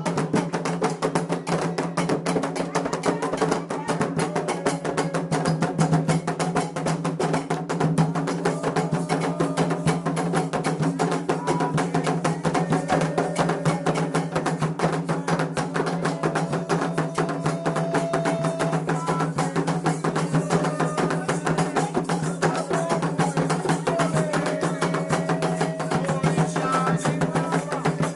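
Candomblé ritual percussion: atabaque hand drums and a struck bell keep up a fast, dense rhythm, with voices now and then holding short sung notes over it.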